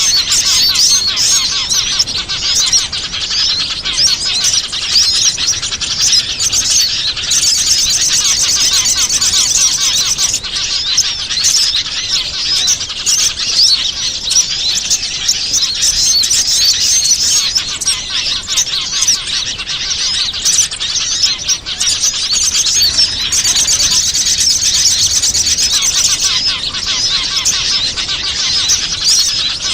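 Bird-lure (pikat) recording of many small wild songbirds chirping and trilling at once in a dense, continuous chorus. Twice a high, fast buzzing trill rises above the rest for a few seconds.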